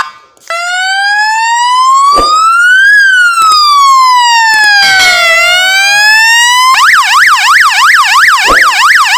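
Three-tone electronic siren horn on a motorcycle sounding loudly: a short beep, then a slow wail that rises for about two and a half seconds and falls for about two, then about two-thirds of the way in it switches to a fast yelp warbling about three times a second.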